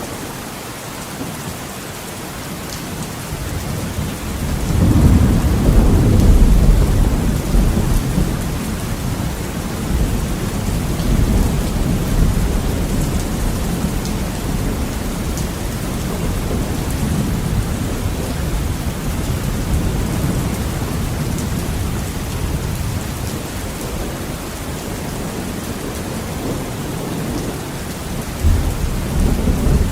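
Heavy rain pattering on a window with rolling thunder. A long, deep rumble builds about four seconds in, peaks soon after and slowly dies away under the rain, and another rumble starts near the end.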